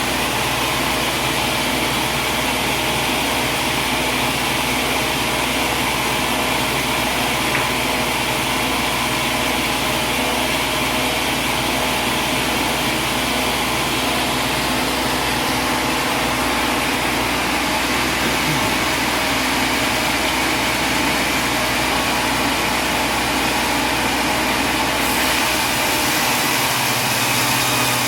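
A machine running steadily: a constant hum with a dense hiss over it, its deep low rumble thinning out near the end.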